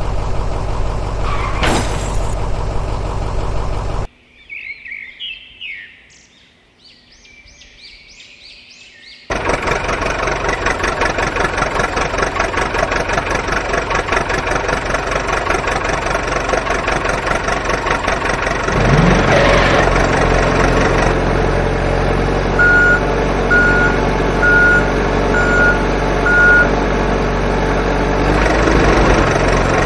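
Heavy truck engine running, with a quieter stretch of high chirps a few seconds in, a rise in engine pitch near the twenty-second mark before the end, and five short reversing beeps in a row after it.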